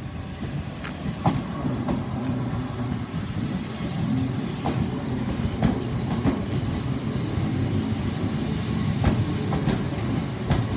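Class 313 electric multiple unit pulling into the platform and slowing: a steady low rumble of wheels on rail, with irregular clicks as the wheels cross rail joints. A short high hiss comes about three seconds in.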